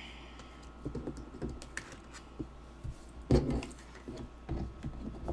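Irregular light clicks and taps, with a louder knock about three seconds in.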